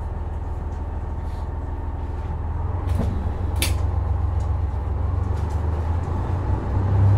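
Running sound heard inside a KiHa 126 series diesel railcar: a steady low drone of the diesel engine and rolling train that grows louder about three seconds in and again near the end. Two sharp clicks come around three seconds in, the second the louder.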